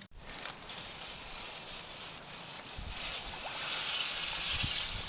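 Fast-flowing stream water rushing with a steady hiss that grows louder about three seconds in, with a couple of faint low thumps.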